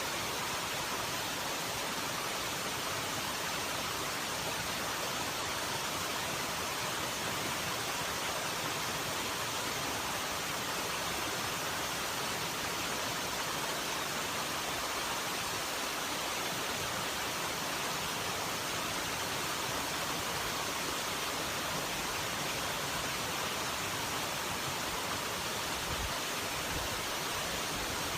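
Steady, even rushing noise, loud and unchanging, with no distinct events in it.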